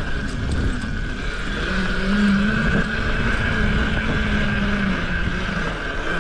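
Mini bike engine running, its note coming up about two seconds in and holding fairly steady, over a rough low rumble.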